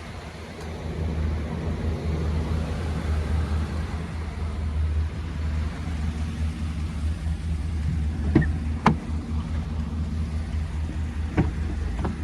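The 2018 Chevy 2500's 6.0 Vortec V8 idling with a steady low hum. Four sharp clicks sound over it in the second half.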